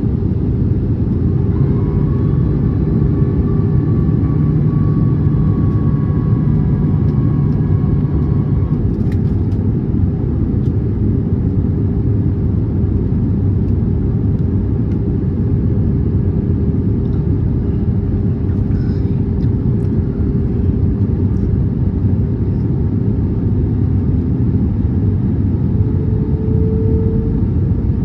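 Airbus A320neo cabin noise from a window seat on final approach and landing: a loud, steady rumble of engines and airflow with a few steady whining tones. One pair of tones stops about nine seconds in, and another tone rises slightly near the end.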